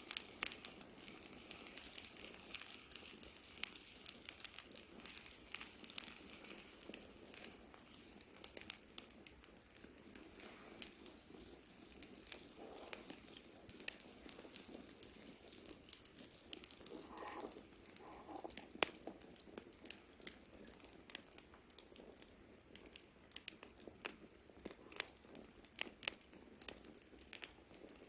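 Wood campfire crackling: irregular sharp snaps and pops, several a second, over a soft steady hiss of burning.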